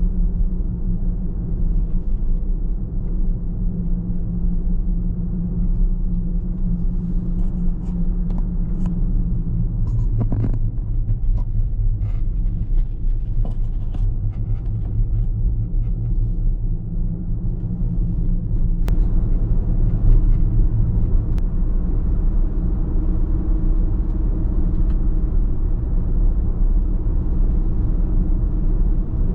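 Car driving on the road: a steady low engine hum and tyre rumble. The engine note drops about ten seconds in and rises again about seven seconds later, with a few faint ticks in between.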